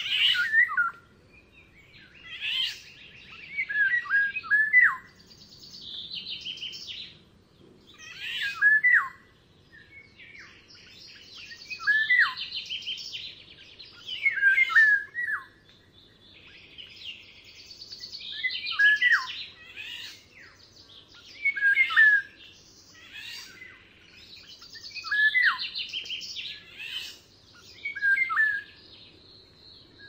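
Songbird singing short phrases every few seconds, each a high buzzy trill followed by quick downward-slurred whistled notes.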